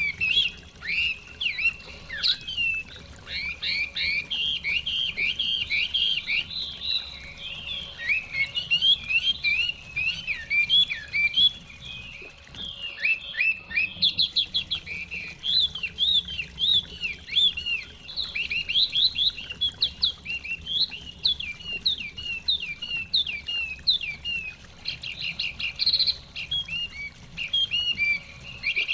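Chinese hwamei (họa mi) singing a continuous, fast run of varied sweeping whistled phrases, which thins briefly about halfway through.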